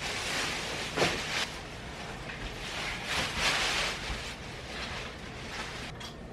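Rustling and scraping of packaging as a heavy animated zombie prop is handled, with a bump about a second in.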